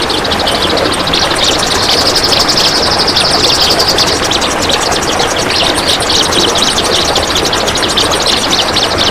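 Kapas tembak songbird chattering in a dense, rapid run of notes that carries on without a break. Its calls sit over a steady noisy hiss.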